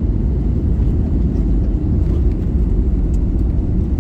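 Steady low rumble heard inside the cabin of an Airbus A321neo during landing.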